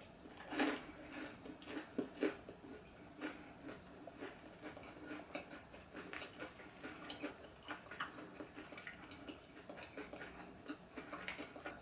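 Chewing a bite of crispy Jamaican festival (sweet fried dumpling): faint, irregular crunches and wet mouth clicks, several a second.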